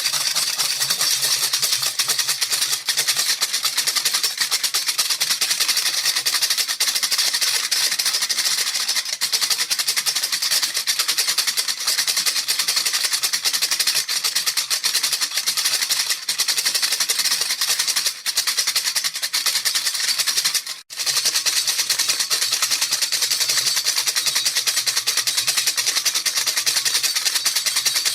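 Baby rattle shaken continuously, a dense, fast, unbroken rattling that stops for a split second about three quarters of the way through.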